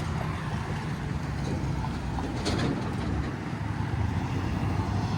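Steady low hum of a motor vehicle engine running, with road noise.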